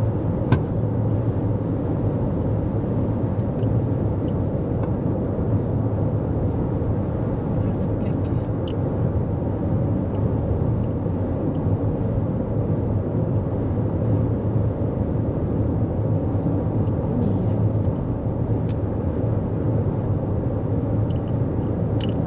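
Steady road and tyre rumble of a 2024 Toyota Corolla Cross cruising at highway speed, heard from inside the cabin, with a few faint clicks.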